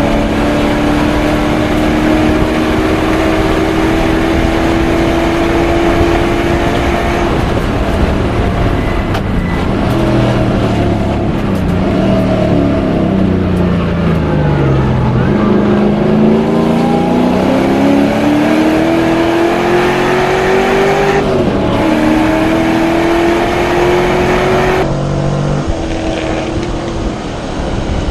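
LS1 V8 of a BMW E30 race car running hard on track. Its pitch climbs slowly, falls steadily as the car slows about ten to fifteen seconds in, rises again through an upshift about twenty-one seconds in, then drops back to a lower, quieter note as the car eases off near the end.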